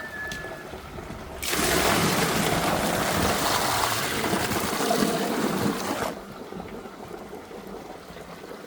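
Drain jetter's lance spraying water on low pressure to wash down the ground, switched on about one and a half seconds in and cut off suddenly some four and a half seconds later. A short, steady high whistle sounds at the very start.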